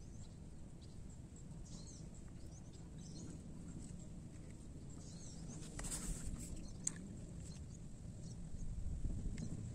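Faint riverside ambience: small birds chirping over a low steady rumble, with a brief noise about six seconds in.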